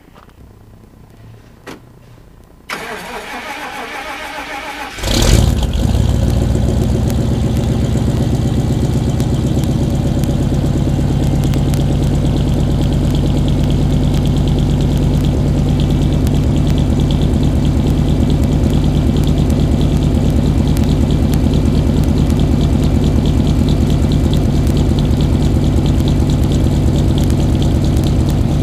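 1995 Chevrolet Suburban's V8 engine cold-started: the starter cranks it for about two seconds, it catches with a sudden surge about five seconds in, then settles into a steady, evenly pulsing idle. It runs rough when first started cold, with a lumpy idle that the owner says sounds like it has a cam in it.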